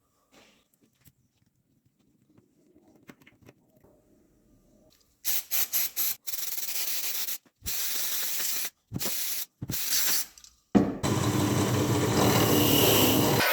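A few faint small knocks, then from about five seconds in several short bursts of harsh hissing noise. About eleven seconds in a power tool starts and runs steadily with a humming motor.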